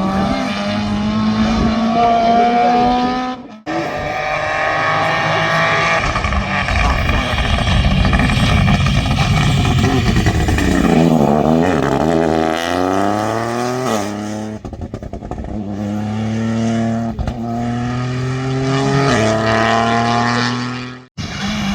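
Rally car engines accelerating hard through the gears, the pitch climbing and dropping back at each upshift. Near the middle the pitch falls and then climbs again as the car slows and picks up speed. The sound breaks off abruptly about three and a half seconds in and again near the end, where one clip gives way to the next.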